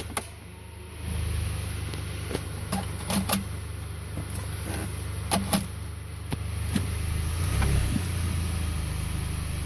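2010 Volkswagen CC running at low speed with its engine idling, with several short sharp clicks and knocks over it.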